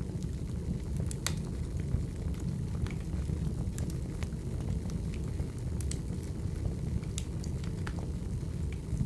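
Wood fire crackling: a steady low rumble of burning logs, with irregular sharp pops and crackles every second or so.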